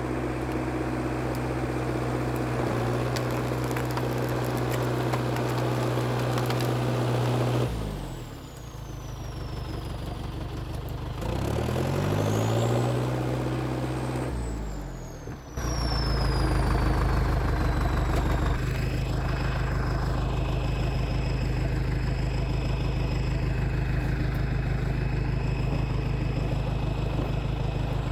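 IH TD8E bulldozer's diesel engine running steadily, then throttled down about eight seconds in, revved back up a few seconds later and eased down again. About halfway through, the sound cuts abruptly to a steady low engine rumble.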